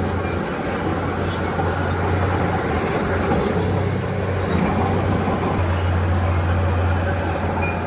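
Diesel engine of a Komatsu D31P crawler bulldozer running steadily under work, with a strong low drone and a mechanical rumble above it, plus scattered faint high squeaks.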